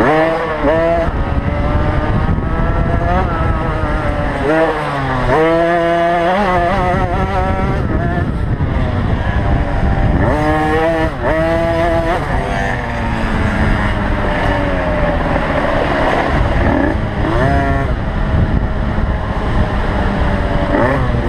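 Small two-stroke 50cc motocross bikes (KTM SX50) revving hard on the track, their pitch climbing steeply and falling back again and again with the throttle.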